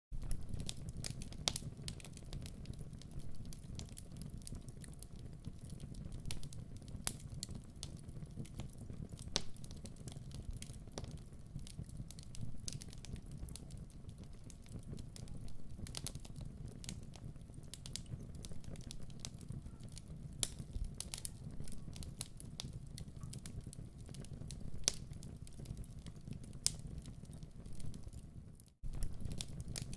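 Wood fire in a fireplace crackling, with a steady low rumble of flame and many sharp irregular pops and snaps. The sound cuts out for a split second near the end.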